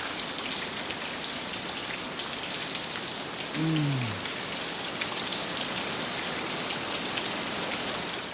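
Water drops pattering steadily on leaves in wet jungle, a dense hiss with many small drips. A short falling hum sounds about halfway through.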